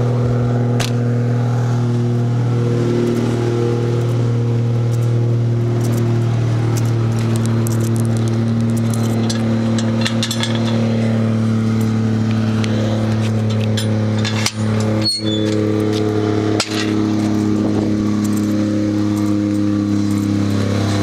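Toyota 2JZ-GTE single-turbo inline-six idling steadily after a cold start, its pitch shifting slightly, with light ticks over the top. The engine is still untuned and, by the owner's word, running rich.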